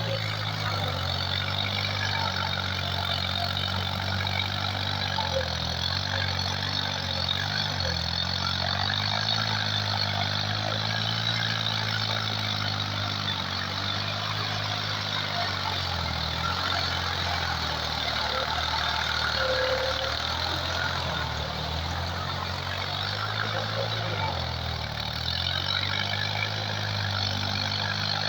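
Tractor engine running steadily, its note dipping briefly about three times.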